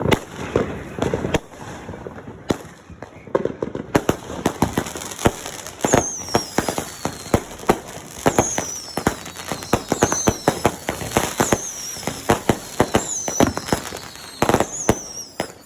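Fireworks going off: rapid bangs and crackling, with high falling whistles repeating about every second and a half from about six seconds in.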